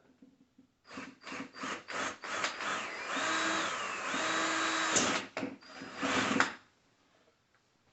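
Power drill boring a mounting hole: a string of short trigger bursts, then a steady run of a couple of seconds with the motor's whine shifting in pitch, then a few more short bursts before it stops about six and a half seconds in.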